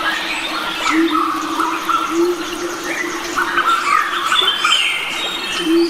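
Forest birds singing and calling together: many short chirps, trills and squawks from several species overlapping, over a low steady note that swells every second or so.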